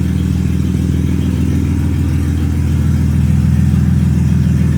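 Naturally aspirated Ford Barra straight-six running with its exhaust snapped off just behind the headers, so it runs essentially open-header and straight-piped. It gets a little louder from about three seconds in.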